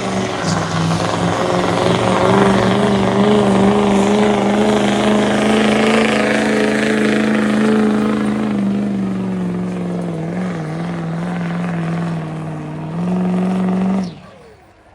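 Stock diesel pickup truck engine held at high revs under heavy load while pulling the sled, its pitch wavering slightly and sagging gradually as the truck bogs down. It picks up briefly, then cuts off abruptly about 14 seconds in.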